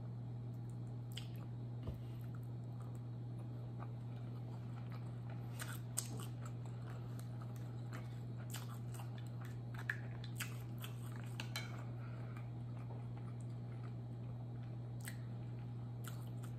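Close-miked chewing of soft butter chicken and rice, with wet mouth clicks and a few sharp clinks of a fork against a ceramic plate, loudest about six and ten seconds in. A steady low hum runs underneath.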